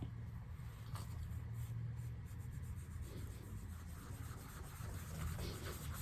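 Faint rubbing and scratching at sticky sticker-glue residue on a MacBook's keyboard, softened with WD-40 but still holding, over a low steady hum.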